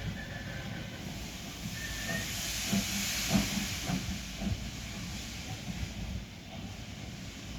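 Steam hissing from S15 class steam locomotive 30506. The hiss swells about three seconds in and then eases, with a few short low knocks around the loudest part.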